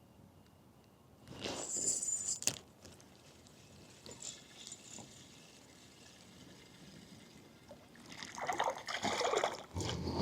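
Water splashing and trickling in two spells: a short one about a second and a half in, and a longer, rougher one near the end.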